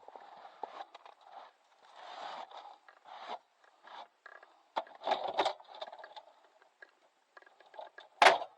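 Scraping and scooping of wood-stove ash in irregular strokes, with one sharp knock near the end.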